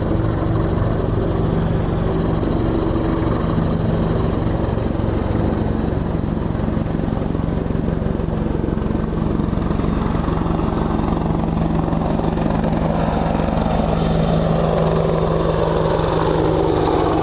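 AH-64 Apache attack helicopter flying past, its rotor beat and engine tones holding steady.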